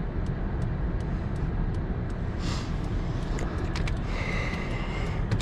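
Steady low rumble inside a car's cabin, with a few faint clicks and a brief high tone about four seconds in.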